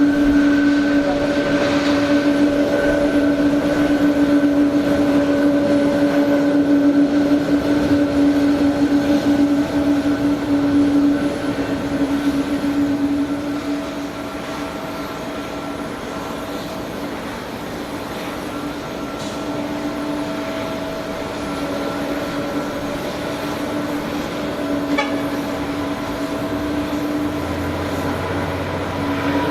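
Steady machinery drone on an airport ramp with a strong held hum, loudest for about the first twelve seconds, then easing a little and carrying on steadily.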